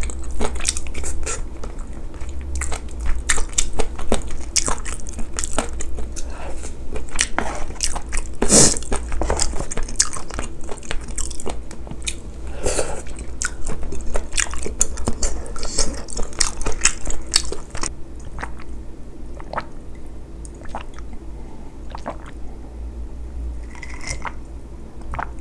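Close-miked chewing and biting, a dense run of wet mouth clicks and smacks that grows sparser after about eighteen seconds.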